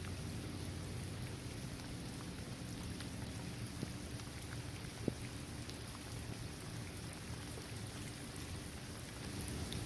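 Steady rain falling on a paved basketball court, trees and grass, with scattered drop ticks and one sharper drip about five seconds in.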